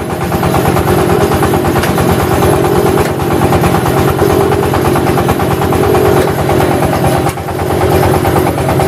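Engine of a motorised clay brick press machine running steadily, with a fast, even low pulsing.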